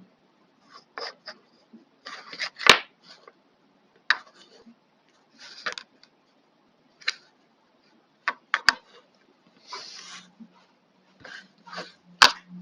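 Plastic casing and small internal parts of a hair trimmer being handled: scattered clicks, taps and short scraping rubs, with a few sharp clicks, the loudest about three seconds in and near the end.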